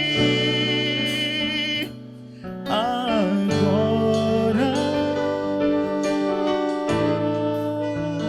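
Live band playing a romantic ballad: a held sung note with vibrato breaks off about two seconds in. After a brief dip, a sliding lead melody and sustained keyboard chords carry on.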